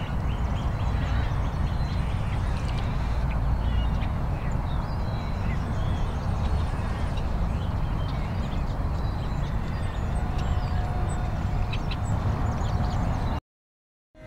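Outdoor ambience: wind rumbling on the microphone, with faint, scattered bird chirps. It cuts off suddenly near the end.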